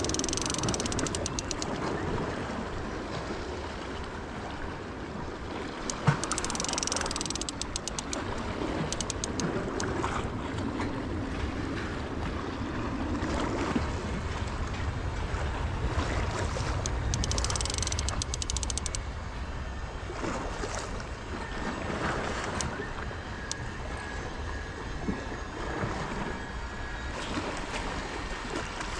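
Waves washing against a rocky shore with wind buffeting the microphone. Several short spells of rapid fine clicking come and go, and there is a single sharp knock about six seconds in.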